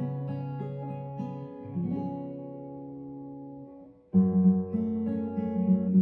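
Acoustic guitar strumming chords and letting them ring. A chord dies away almost to silence about four seconds in, then a louder strum starts the next phrase.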